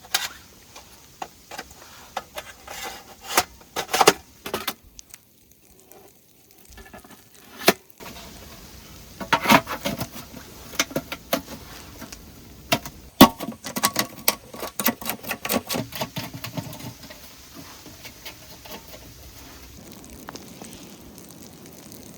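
Irregular clicks, clinks and knocks of gear being handled, with a quiet pause partway through and a busy run of clatter in the second half over a steady low hiss.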